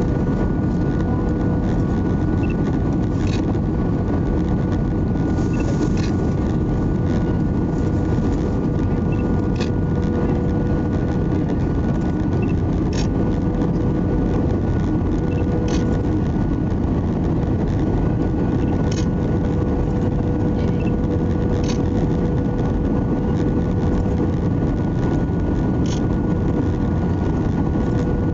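Airbus A320 cabin noise: a steady rumble with a constant whine from the engines, and faint short ticks about every three seconds.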